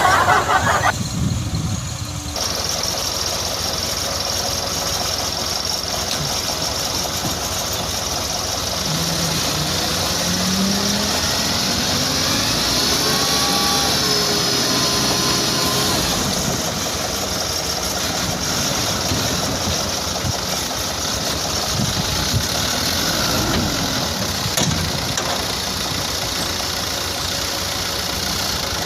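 Toyota Dyna dump truck's engine running steadily, with a few rises and falls in pitch about midway.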